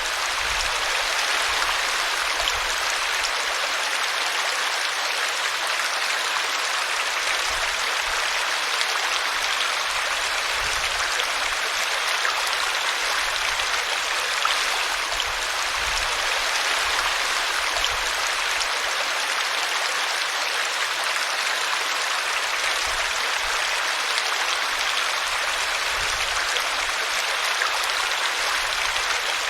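A small brook running over a tree root, a steady even rush of water.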